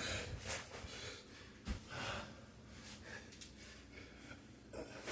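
A man breathing hard in short, sharp breaths while doing sandbag clean and overhead presses, with a single thump about a second and a half in.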